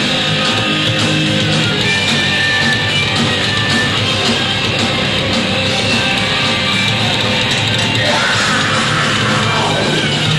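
Live heavy rock band playing loudly with distorted electric guitars, with a long falling pitch sweep about eight seconds in.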